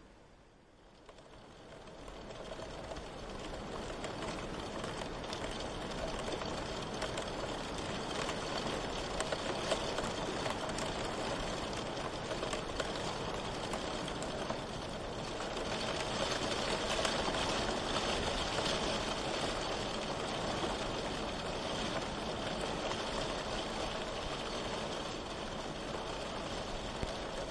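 Steady rain, heard as an even hiss. It fades in over the first few seconds and swells slightly a little past the middle.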